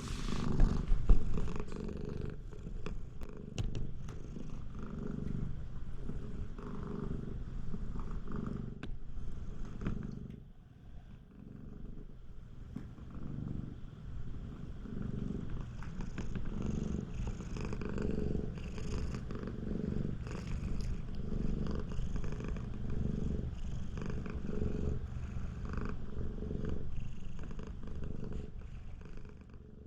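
Siamese cat purring loudly, a deep, rough purr that swells and fades with each breath and eases for a moment midway. A loud low bump about a second in.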